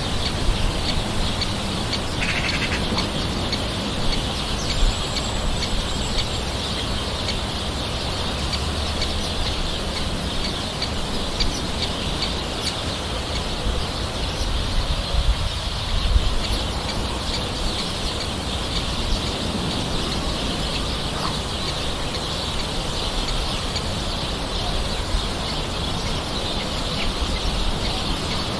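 Steady light rain falling, with birds calling faintly in the background.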